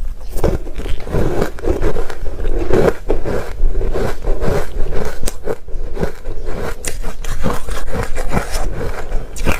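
Close-miked chewing of ice, a dense, continuous run of crunches and crackles.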